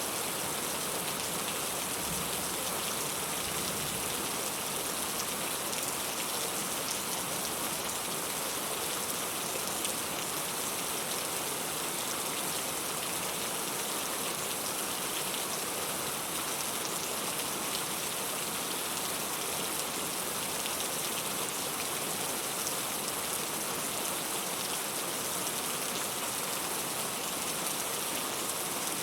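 Steady rain falling, an even hiss of many drops striking a surface, with no let-up.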